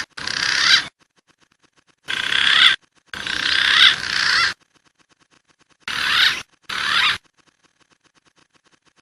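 Green pigeon (punai) calls: a run of high, wavering whistled phrases, five short ones with brief pauses between, the fourth the longest. A faint, even ticking runs under the gaps.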